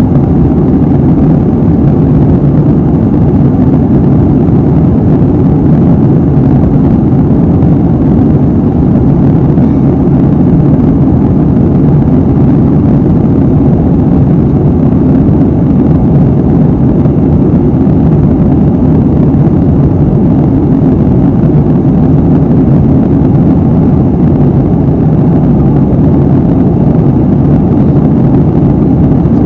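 Steady low roar of an airliner cabin in cruise: engine and airflow noise heard from a window seat, even throughout.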